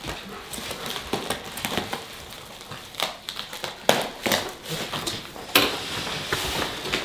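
Plastic packing wrap crinkling, crackling and tearing in irregular bursts as it is cut and pulled off a packaged pot, with a few sharper snaps.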